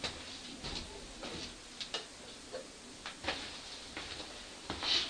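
Faint, irregular ticks and light taps, about ten of them, a second or less apart, over a quiet room background.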